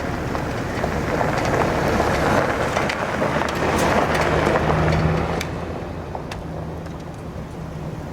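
A road vehicle passing by: its noise swells over a few seconds and then falls away about five seconds in, over a steady low engine hum.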